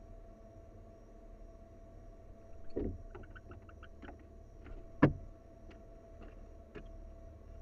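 Barn owl moving in a wooden nest box: a soft thud, a quick run of small clicks and scratches, then one sharp loud knock about five seconds in, followed by a few lighter ticks, over a steady low hum.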